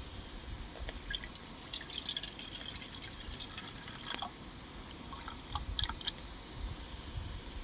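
Liquid dripping and trickling: a run of small, sharp wet ticks that thins out after about four seconds, with a few more a second or so later.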